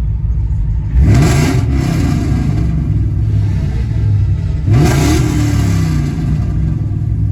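Car engine idling and revved twice, about a second in and again near five seconds. Each rev climbs quickly in pitch and falls back to idle.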